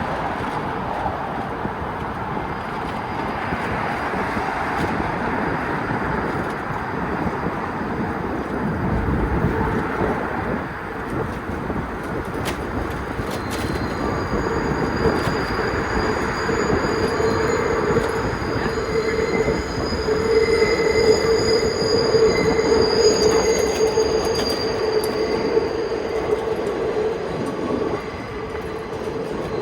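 A train rumbles past on nearby tracks, its wheels squealing in long, steady, high tones through the second half.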